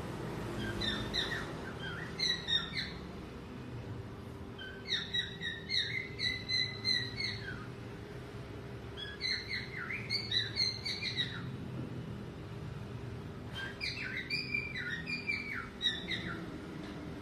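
Male cockatiel whistling its song in phrases of quick warbled notes: two short bursts, then three longer phrases with pauses between them. A steady low hum runs underneath.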